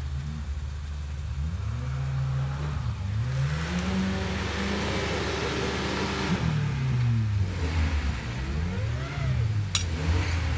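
A 4x4 off-road vehicle's engine revving up and falling back again and again, as when working through mud. A rushing noise swells over the middle few seconds, and there is a sharp click near the end.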